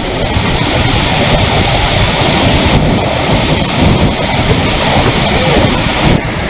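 Loud, steady rush of floodwater pouring from an overflowing lake.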